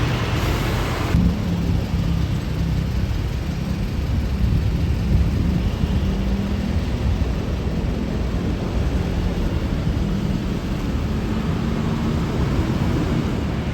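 Deep, steady rumble of heavy road traffic at close range, a large diesel engine droning low with its pitch shifting slowly. It is a little brighter in the first second.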